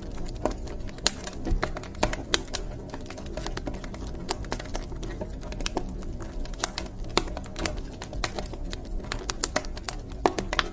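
Wood fire crackling in a fireplace: irregular sharp pops and snaps, several louder ones standing out, over a steady low rumble of the flames.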